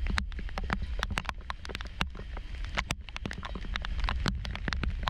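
Squall rain falling hard, with sharp irregular ticks of drops striking close by, several a second, over a low rumble of wind on the microphone.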